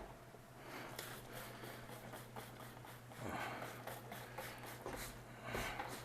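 Low steady hum with faint rustling and light clicks, as of parts being handled.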